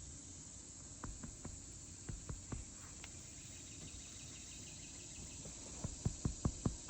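Steady high chirring of crickets and other insects, with scattered soft taps, a few about a second in and a quicker run of them near the end.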